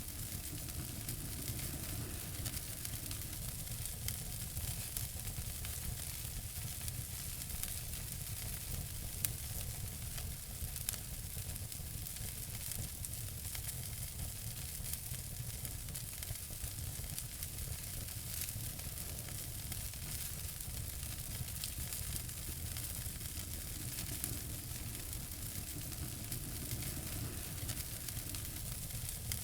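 Fire in a fireplace crackling: a steady hiss with many small crackles, and a couple of sharper pops about a third of the way in.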